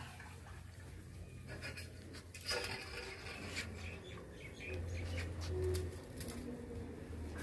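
Birds chirping, with a few brief clicks about a third of the way in.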